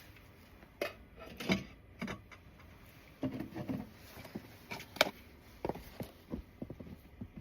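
Irregular knocks and short clatters of things being handled, the sharpest knock about five seconds in.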